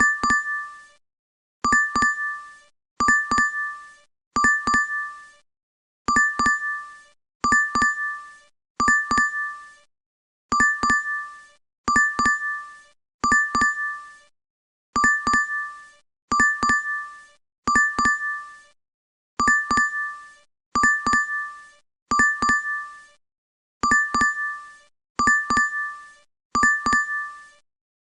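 DoorDash app notification sound repeating over and over. Each alert is a short, bright chime of a few quick dings that fades out within about a second. They come about every second and a half, with a brief pause twice.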